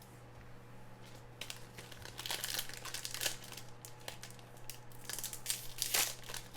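Foil trading-card pack wrapper being torn open and crinkled by hand, in irregular crackles that start about a second and a half in and grow busier, over a steady low electrical hum.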